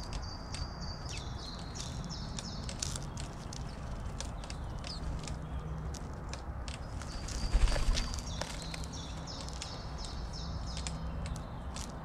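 A songbird singing a short phrase of high, stepped notes, heard twice, against scattered small clicks and taps. A single louder thump comes about two-thirds of the way in.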